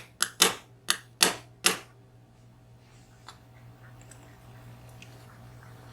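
Sharp metal clicks and taps from a VSR dimple lock and tools being handled while its pins and springs are taken out: about five in the first two seconds, then only faint small ticks.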